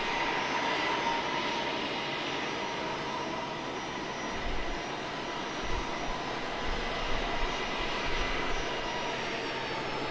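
Southwest Boeing 737-800's CFM56 turbofans running at takeoff power: a steady jet rush with a high whine. A few low thumps sound in the second half.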